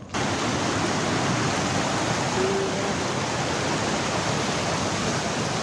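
Monsoon river water rushing steadily over a check dam. It cuts in suddenly at the start and holds as an even wash of noise.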